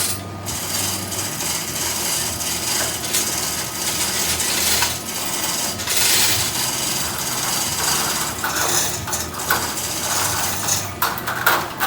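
Irregular metal clanks, knocks and rattles from rigging gear working a 500-gallon hot water storage tank, with a low hum underneath.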